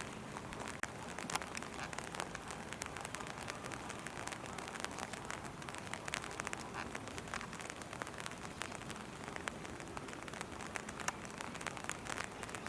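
Steady rain, with many close drops ticking irregularly.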